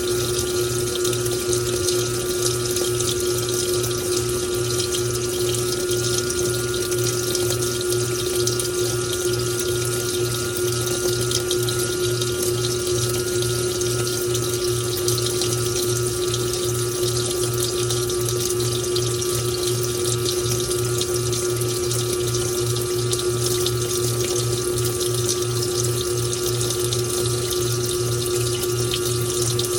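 Washing machine filling with bathwater through its pump: a steady rush of running water over a constant pump hum with an even low throb.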